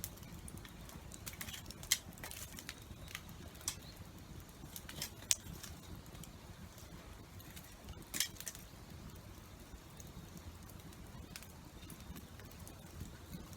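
Wood campfire crackling, with scattered sharp pops over a low steady background.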